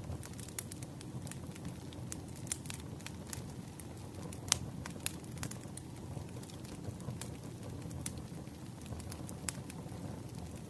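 Wood fire burning with a low steady rumble and irregular sharp crackles and pops, one louder pop about halfway through.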